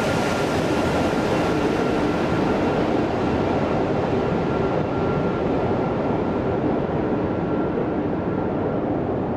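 Jet airliner engines running with a loud, steady rush and a faint steady whine. The high end of the noise fades gradually from about four seconds in, as the aircraft draws away.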